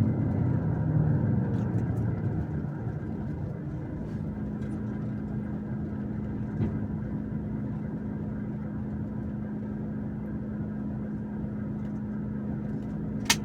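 Truck engine running as the truck slows to a stop, then idling steadily with a constant hum. A single sharp click comes near the end.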